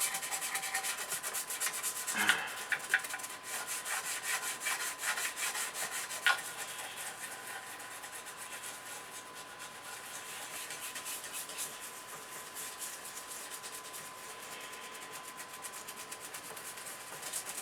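Toothbrush scrubbing dirt off an aluminium chassis: fast, even back-and-forth brush strokes, with a few light knocks in the first six seconds and softer strokes after that.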